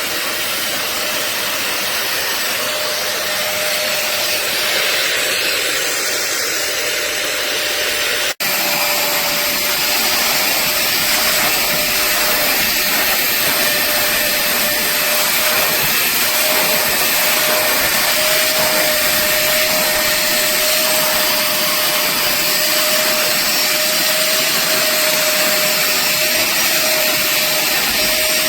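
A 450 W portable upholstery and carpet wet-vacuum spot cleaner running steadily, a constant motor whine over airflow noise, with a momentary break about eight seconds in.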